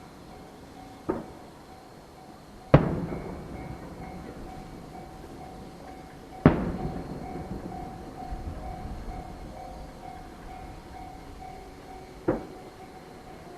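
Aerial firework shells bursting at a distance: four sharp bangs, each followed by a rolling echo, with the second and third the loudest.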